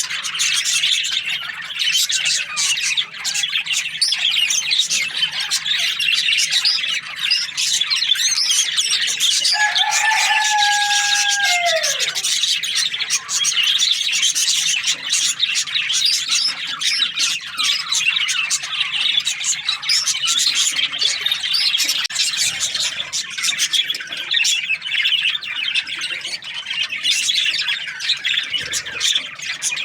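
A colony of budgerigars chattering and chirping continuously. One longer, lower call from another bird starts about ten seconds in and falls away at its end.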